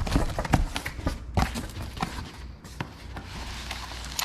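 Cardboard parts box being opened by hand: a quick run of knocks and taps for the first second and a half, then softer rustling and scraping of the cardboard and packaging.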